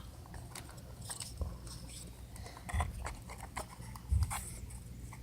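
Scattered small clicks, taps and scrapes of small wooden birdhouse kit pieces being handled and fitted together, with a few dull bumps.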